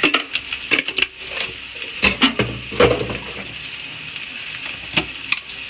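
Chopped onions and capsicum sizzling steadily in oil in a steel kadhai. Over the first three seconds, a run of sharp crackles and clicks comes from a plastic sauce pouch being handled.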